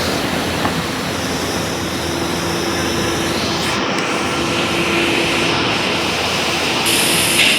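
SEPTA Silverliner IV electric multiple-unit train running by, a loud steady rushing with a faint steady hum.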